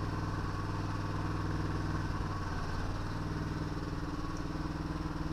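Walk-behind tractor engine running steadily at low revs.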